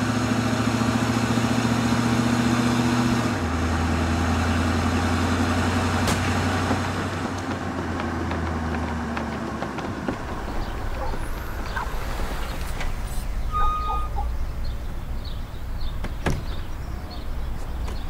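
Car engine running steadily, dropping in pitch about three seconds in and dying away around ten seconds in. It leaves a low rumble with scattered small clicks, a short beep and a sharp click near the end.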